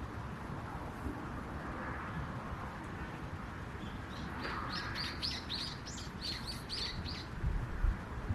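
A small bird singing a quick run of about a dozen short, high chirps midway, over a steady low outdoor rumble, with a few low thumps or wind buffets on the microphone near the end.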